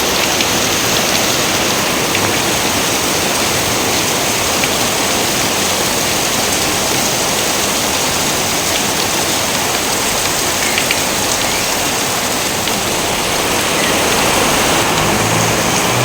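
Steady, dense rainfall pattering without a break, with a low rumble coming in near the end.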